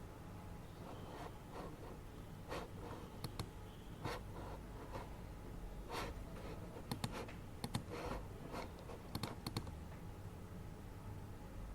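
Scattered, irregular keyboard clicks and small desk taps, with short clusters of keystrokes, over the steady low hum of an air purifier.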